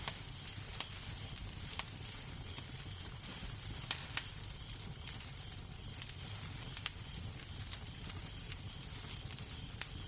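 Wood fire in a fireplace crackling, with a steady hiss and low rumble under irregular sharp pops, a few of them louder about four seconds in.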